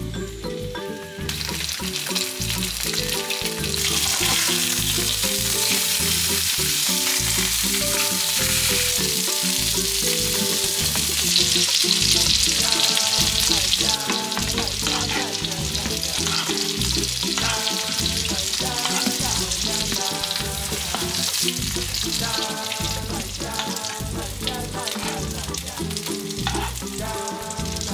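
Food sizzling in a hot frying pan as it is seared or stir-fried. The sizzle starts about a second in and is loudest around the middle, with background music playing under it.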